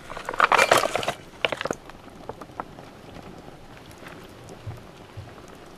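Packaged food being handled and tipped into a small pot: a brief burst of rustling in the first second, then a few light clicks and knocks, followed by a faint steady hiss.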